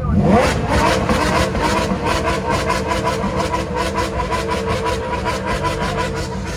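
A car engine revs up sharply, then holds at high, steady revs with a rapid, even pulsing.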